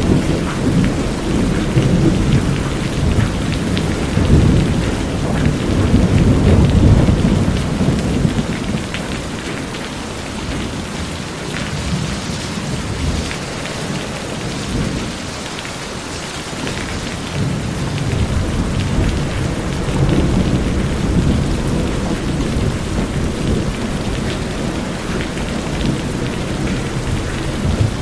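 Rain falling steadily on a corrugated metal roof and running off its edge, under low rolling thunder. The thunder is loud for the first several seconds, eases in the middle, and builds again in the last third.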